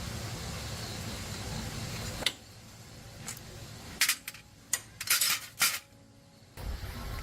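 Small metal parts and tools clinking against each other: a sharp click, then after a pause a string of bright metallic clinks, the busiest just past the middle, with a steady background noise on either side.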